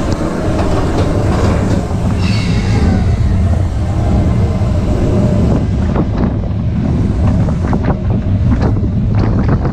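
Expedition Everest roller coaster train running along its track with a steady, loud rumble, rattling and clacking more in the second half, with wind buffeting the microphone.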